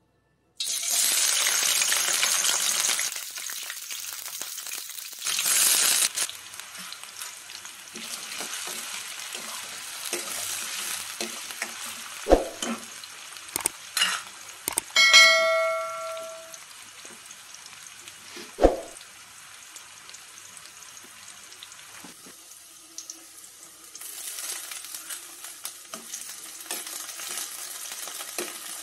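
Chopped onions hitting hot oil in a stainless steel kadai, sizzling loudly at first, then frying steadily, with a second burst of sizzling when more is added. A few knocks of a steel utensil on the pan come in the middle, and one ringing metallic clang fades out just past halfway. Near the end a steel ladle stirs the onions and chillies and the sizzling grows louder.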